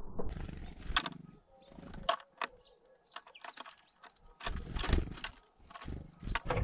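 Great tits coming and going at a wooden seed feeder, picked up close: wing flutters, and a series of sharp clicks and knocks as birds land on the wooden rim and peck among the oats and sunflower seeds, with a cluster of them about two-thirds of the way through.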